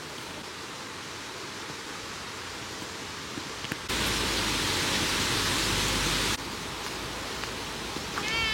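Steady hiss, with a louder rush of noise that cuts in about four seconds in and stops sharply some two and a half seconds later. A cat meows right at the end.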